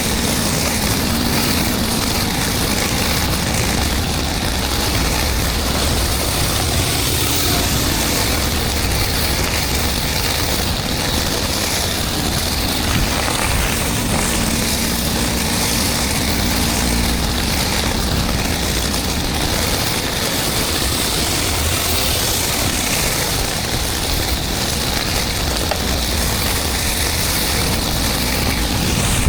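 Engine-driven 12 GPM pressure washer running steadily, with high-pressure water spraying onto concrete as a constant hiss over the engine's hum.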